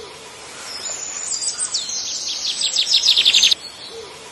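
Birdsong: high whistled chirps and gliding notes, then a fast, loud trill that cuts off suddenly about three and a half seconds in. The same song starts over near the end.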